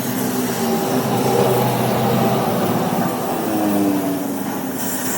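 A motor or engine running steadily, its hum shifting slightly in pitch about three and a half seconds in.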